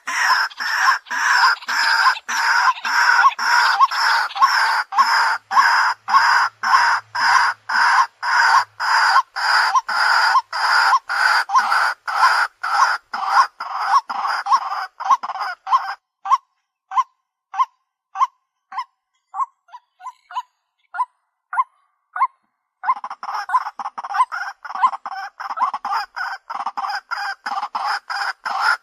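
White-breasted waterhen calling: a loud, repeated 'kwak' about twice a second. Past the middle the calls thin to short, sparse notes for a few seconds, then resume as a faster, denser run.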